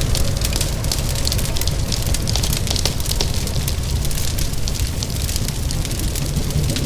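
A wood fire crackling with many small sharp pops, over a steady hiss of rain and a low rumble.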